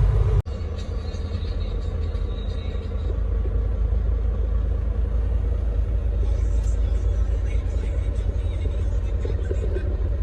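Steady low engine and road rumble heard from inside a semi truck's cab, with a brief cut-out about half a second in.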